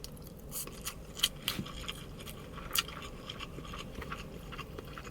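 Close-miked eating sounds of a mouthful of chicken biryani being chewed: irregular small wet clicks and smacks, the loudest about a second and a half and nearly three seconds in.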